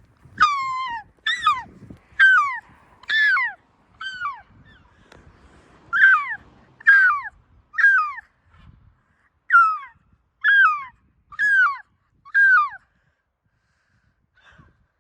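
Gull calling over and over: about a dozen loud, downward-sliding squawks, roughly one a second, with short pauses about 5 and 9 seconds in.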